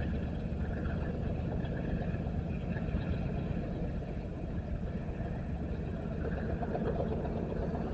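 Steady low rumble of an idling engine, with no sudden events.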